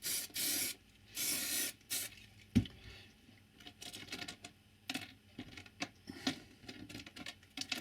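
Two short bursts from an aerosol can spraying dark rust paint onto model railway track, followed by a single knock and a scatter of light taps and clicks.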